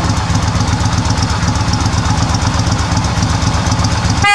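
Motorcycle engine idling with a steady, rapid pulse, and a short horn beep right at the end.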